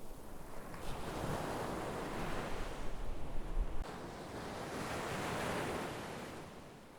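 Sea waves breaking and washing onto the shore, the surf swelling twice and then easing off.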